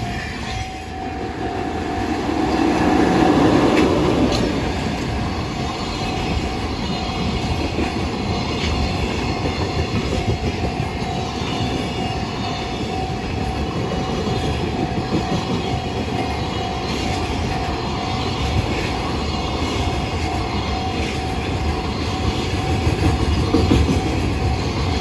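Freight trains passing close by, the wagons rumbling and clattering over the rails, loudest about three seconds in. A level-crossing warning bell rings as a steady tone throughout.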